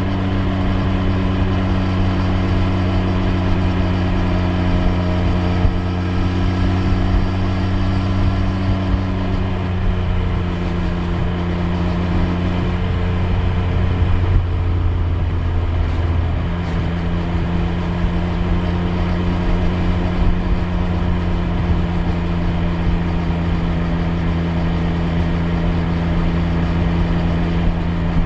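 Triumph Street Triple 765 R's inline three-cylinder engine running steadily at road speed. Its note shifts briefly about halfway through, then holds steady again.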